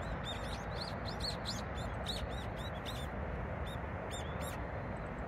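A small bird chirping repeatedly: about a dozen short, high, arching chirps, coming in quick runs and stopping a little before the end, over a steady background hiss.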